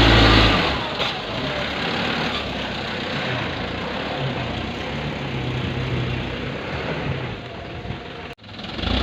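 Dump truck's diesel engine running, loud at first, then settling to a steady lower level with its low note rising and falling. The sound cuts out abruptly for a moment near the end.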